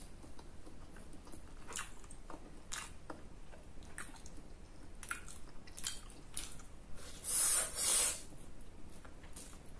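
A person chewing food close to the microphone, with many small wet mouth clicks and smacks. There are two louder crackly sounds near the end, each about half a second long.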